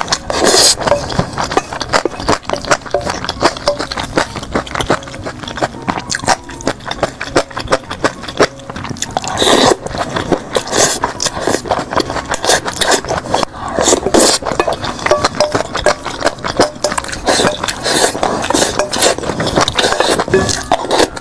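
Close-miked eating sounds: wet chewing and biting of braised pork, with frequent sharp clicks and scrapes of utensils against a bowl or plate.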